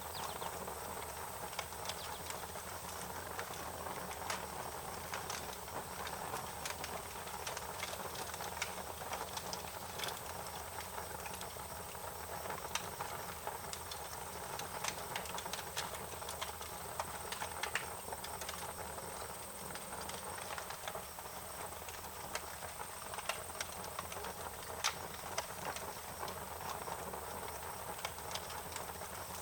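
Wood fire crackling: frequent irregular sharp pops and snaps over a steady hiss.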